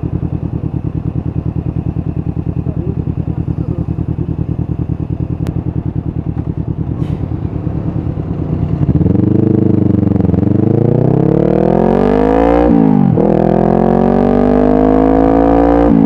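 Honda CBR500R parallel-twin engine through a Yoshimura full exhaust, running with a steady low pulsing note, then accelerating about halfway in. The revs climb, drop sharply at each upshift and climb again.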